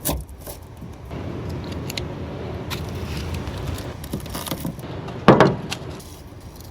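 Scattered light clicks, taps and knocks of handling garlic and kitchen items, with a sharp knock at the start and one louder, heavier thump about five seconds in.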